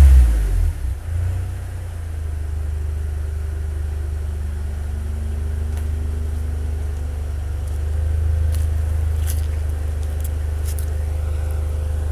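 Car engine through a new Borla XL exhaust: a rev dies away in the first second, then it settles into a steady, deep idle.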